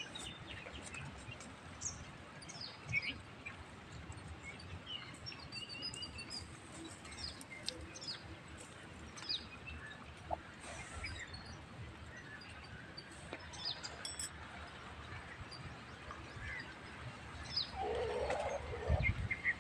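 Small birds chirping faintly, short high calls scattered irregularly over a quiet rural background.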